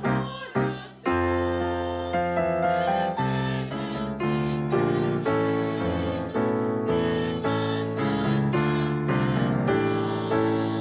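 Slow, tender live ensemble music led by piano: struck chords at first, then sustained held notes that change every second or so.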